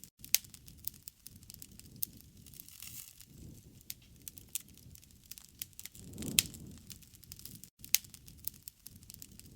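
Campfire crackling, with frequent sharp pops and snaps of burning wood over a low rushing of the flames that swells up for a moment about six seconds in.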